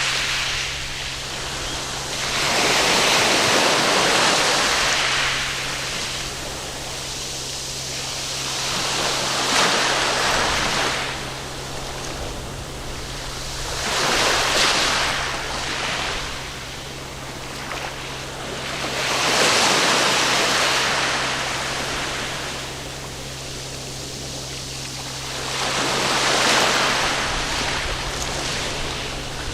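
Waves breaking and washing up on a sandy beach, the surf swelling and falling back about every five to six seconds.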